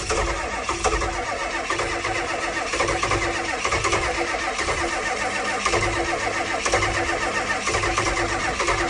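International 6.9 L IDI diesel V8 cold-starting with the throttle pedal held to the floor, turning over and catching into an uneven, pulsing run. The owner suspects the glow plugs are burnt out from being left on too long.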